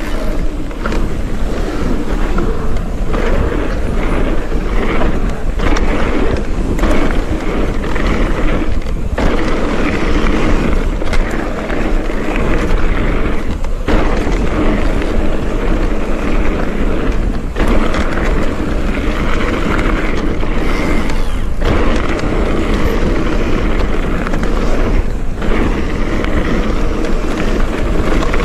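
Mountain bike running fast down a dirt trail: continuous tyre roar over the ground with the bike rattling and clattering over bumps.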